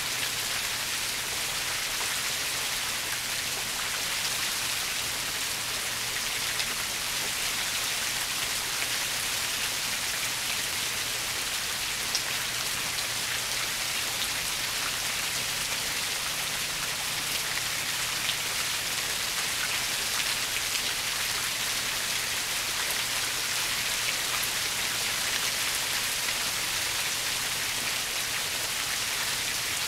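Steady rainfall: an even hiss of rain on surfaces, flecked with small sharper drop ticks.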